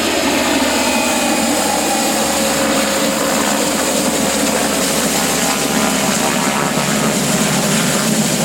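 Logging helicopter running steadily and loudly, its rotor and engine noise unbroken.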